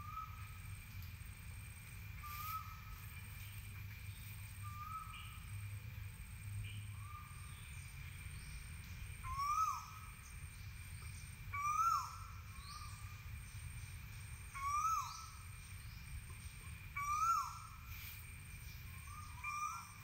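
A bird repeating a short whistled call every second or two, faint at first and much louder from about halfway through, each loud call rising sharply in pitch and then dropping.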